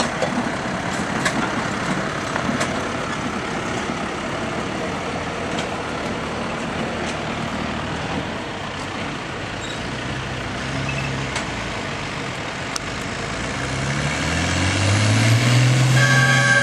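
Tractor engine at a tractor pull running under a steady din, then revving up with a rising pitch that grows louder about fourteen seconds in.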